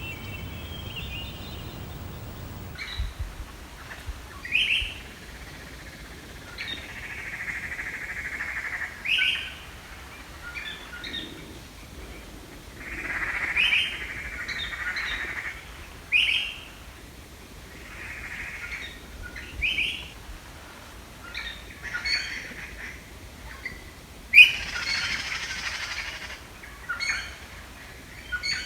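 Songbirds calling: short, sharp chirps every few seconds alternating with longer buzzy trilling phrases, the loudest chirp about three-quarters of the way through.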